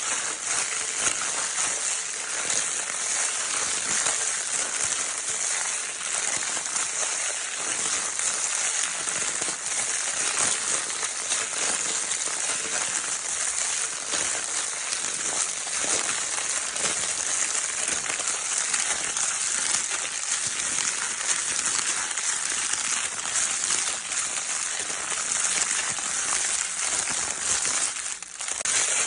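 Crinkle-paper baby toy being crinkled continuously, a dense and steady crackling. It dips briefly near the end.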